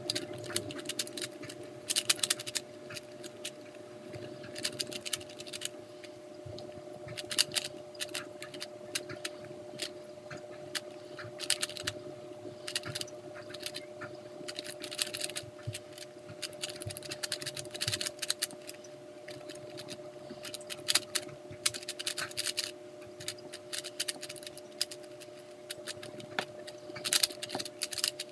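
Plastic 3x3 speed cube, a GAN 356 Air, being turned: rapid irregular clicking and clattering in quick clusters, over a faint steady hum.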